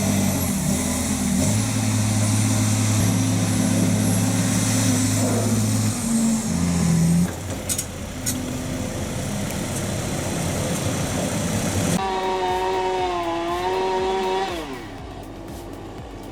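Diesel engine of a six-wheel Tigercat forestry machine running steadily, its pitch shifting about six seconds in. Near the end a different small engine with a wavering pitch takes over for a couple of seconds, then dies away with a falling pitch.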